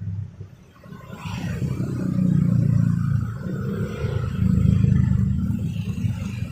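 Street traffic: vehicle engines passing close by. The low rumble rises about a second in and stays loud, swelling twice.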